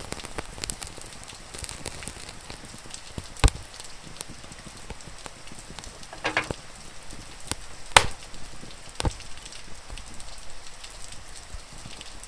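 Wood fire crackling, with a few loud sharp pops, over a steady hiss of rain. About six seconds in there is a short pitched sound.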